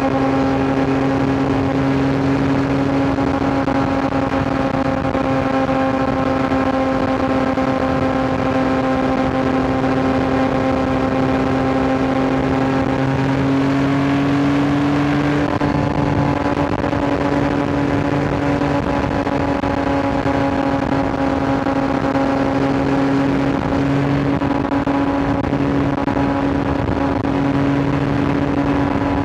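Yamaha R9's 890 cc inline-triple engine running at a steady cruising speed, heard from the rider's seat with wind rushing past. About halfway through its pitch creeps up and then steps down slightly, and it carries on steadily.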